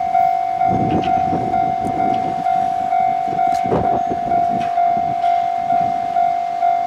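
Japanese railway level-crossing alarm ringing, a steady electronic ding repeating about twice a second, with irregular gusts of rumbling noise underneath.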